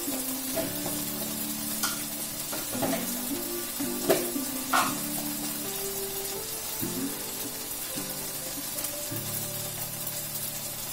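Onion and tomato-paste masala sizzling as it fries in a wok, with a few sharp clicks about two to five seconds in. Background music plays underneath.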